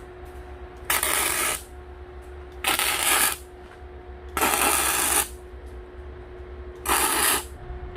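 Electric arc welder laying tack welds on the steel stove frame: four short bursts of arc crackle, each under a second, with pauses between, over a steady faint hum.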